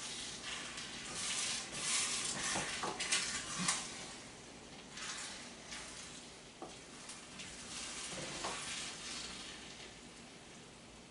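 A spoon stirring and clinking in a pot on the stove, with irregular scrapes and a few sharp knocks over a sizzling hiss, quieter near the end.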